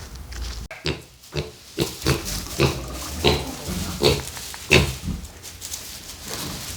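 Vietnamese pot-bellied piglet grunting: a run of short grunts, roughly one or two a second.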